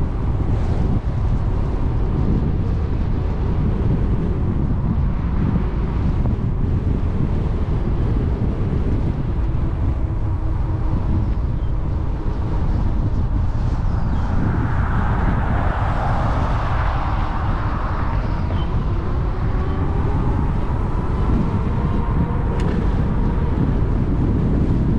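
Wind buffeting the action-camera microphone on a moving e-bike, a steady low rumble with road and tyre noise underneath. About halfway through a louder rushing sound swells and fades over a few seconds.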